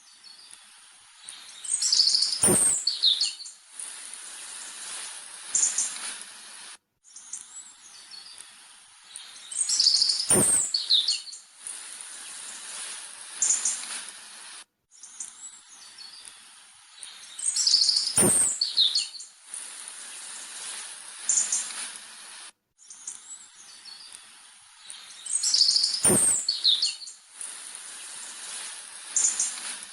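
Birds chirping and whistling over a hissing background. The same few seconds of song repeat about every eight seconds, each time with a sharp knock among the loudest calls and a brief dropout between repeats: a looped birdsong track.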